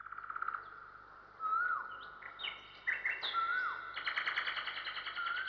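Several songbirds singing: rapid trills, and a whistled note that rises and then drops, heard three times about two seconds apart. A louder trill joins about four seconds in.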